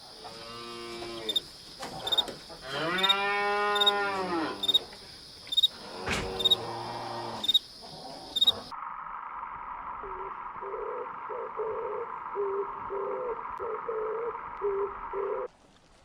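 Cow mooing: short calls, then one long moo that rises and falls over about two seconds. About nine seconds in the sound cuts abruptly to a steady hum with a run of short, evenly repeated notes.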